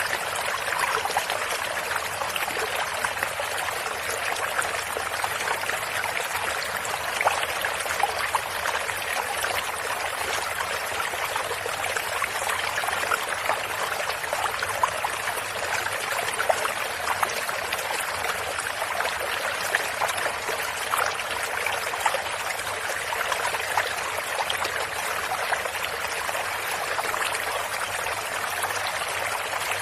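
A stream of water running and trickling over stones in a steady flow, with many small splashes.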